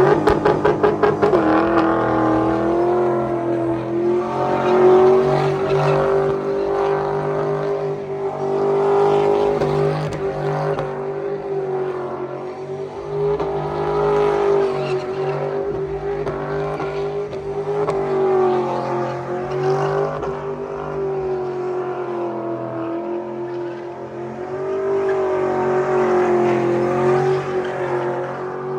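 Vehicle engine revving up quickly with a rapid stutter, then held at high revs, its pitch wavering a little up and down.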